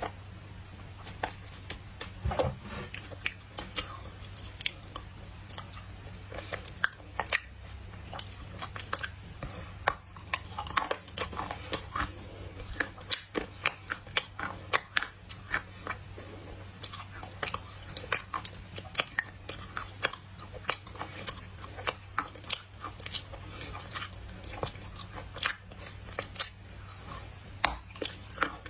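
Close-miked biting and chewing of dry loess clay: a dense, irregular run of sharp crunches and crackles, over a low steady hum.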